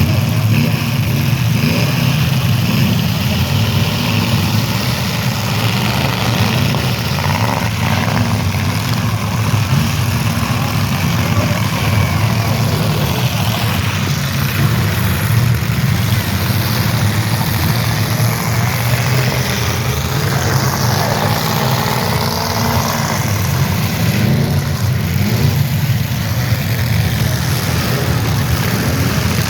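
Engines of old demolition derby cars running and revving together as one continuous loud engine drone.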